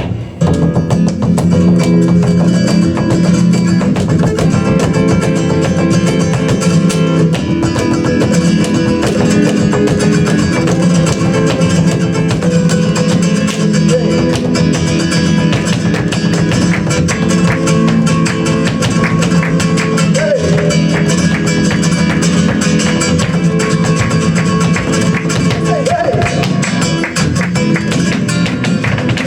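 Live flamenco music in the farruca form: a flamenco guitar played continuously, with sharp percussive strokes all through.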